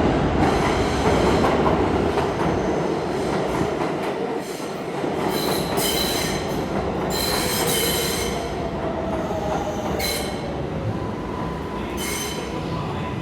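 NYC Subway R142A train running on the rails with a steady rumble, broken by several short, high-pitched squeals. A tone glides downward about halfway through.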